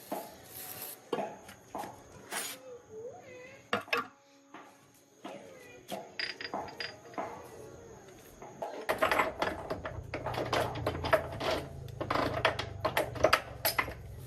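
Metal parts and hand tools clinking and tapping against each other, with a few short ringing pings, as a tractor gearbox is worked on. A low steady hum starts about nine seconds in, under denser clatter.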